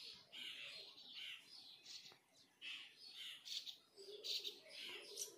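Birds chirping faintly in short, irregular calls.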